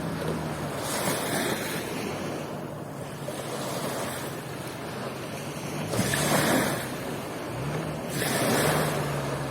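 Sea waves washing onto the beach, swelling about a second in, around six seconds and again near eight seconds. A steady low engine hum runs underneath.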